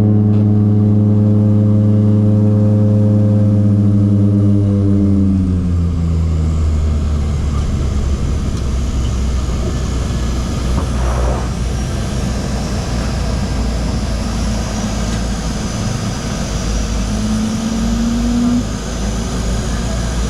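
Seaplane's propeller engine droning steadily, a strong engine tone for about five seconds that then drops slightly in pitch and merges into a broad low rumble of engine and airflow. A short rising tone comes through near the end.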